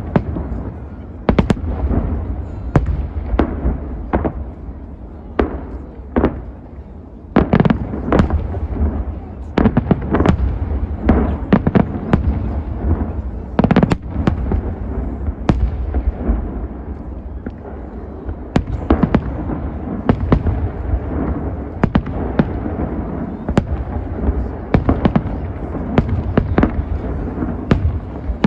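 Large fireworks display: aerial shells bursting one after another in quick succession, a dense run of sharp bangs and crackles over continuous low-pitched noise.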